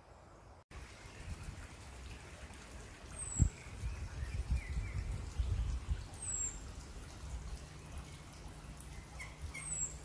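Birds calling in woodland: a short high falling chirp repeated about every three seconds, with softer chirps underneath. An uneven low rumble of wind on the microphone runs beneath them, with one thump about three and a half seconds in.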